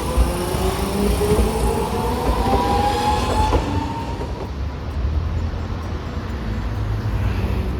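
Streetcar pulling away, its electric traction motors giving a rising whine for about four seconds before it fades, over a steady low rumble.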